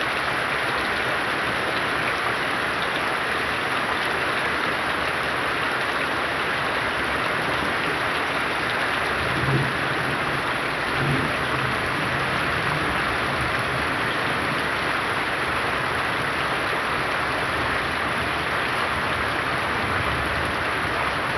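Heavy rain falling steadily in a dense, even hiss, with a brief low rumble about halfway through.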